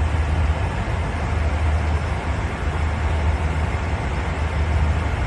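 Steady cabin noise of a commercial airliner in flight: an even rush of engine and airflow noise over a strong low hum.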